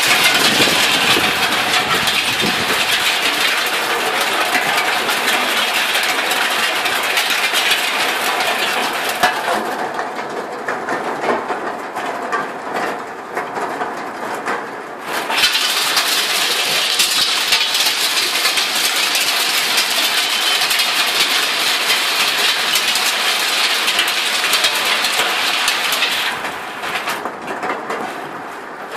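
Hail falling with rain: a dense, continuous clatter of hailstones striking hard surfaces. It eases for a few seconds about ten seconds in, and again near the end.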